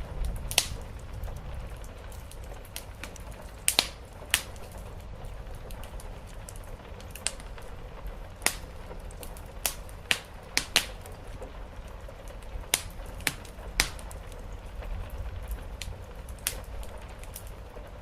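Wood fire crackling in a fireplace, with irregular sharp pops about once or twice a second over a steady low rumble and the hiss of rain.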